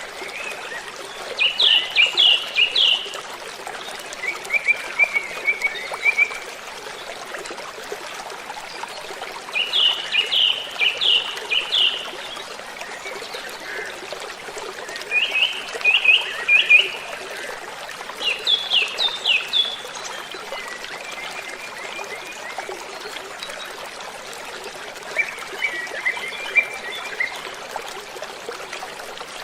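Waterfall making a steady rush of falling water. Over it a songbird sings short phrases of quick falling notes every few seconds.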